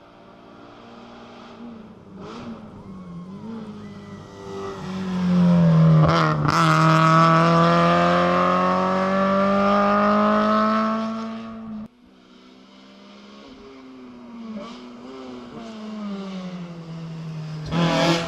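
Rally car engine at high revs, growing loud as the car comes close and passing. The sound cuts off suddenly about twelve seconds in, and another rally car's engine is then heard coming closer and getting louder.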